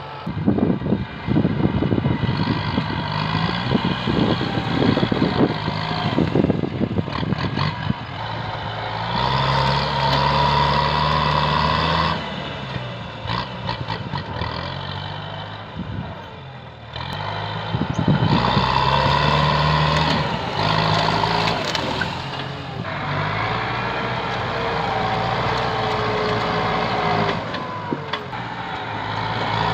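Kubota M8540 tractor's diesel engine working under heavy, shifting load, with sharp cracks and snaps in the first several seconds. A high steady whine comes in twice.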